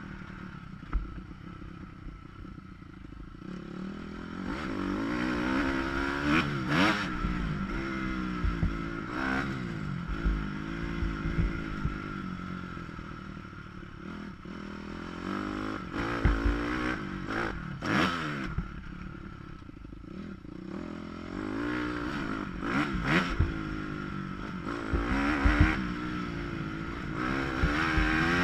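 Motocross dirt bike engine revving up and falling off again and again as the rider works the throttle around the track, with sharp knocks and clatter from the bike at intervals. The sound is muffled, recorded through a GoPro's closed waterproof housing.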